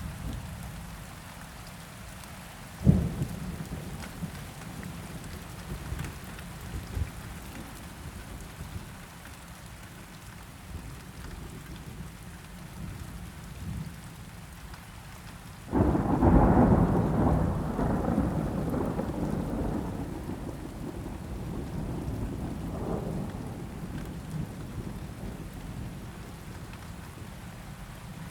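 Steady rain with thunder: a sharp crack about three seconds in, then a loud thunderclap about halfway through that rumbles on and slowly fades.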